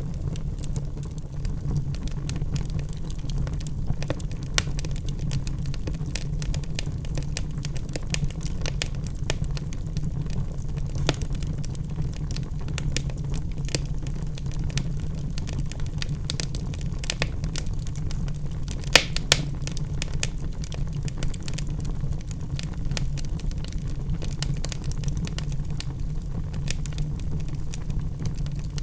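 Logs burning in a fireplace: a steady low rumble of flame with constant fine crackling and a couple of louder pops about two-thirds of the way through.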